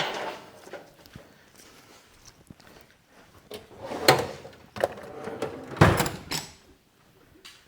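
A few knocks and clunks of hand tools and metal parts being handled at a riding mower's carburetor, the loudest about four seconds in and a cluster around six seconds in.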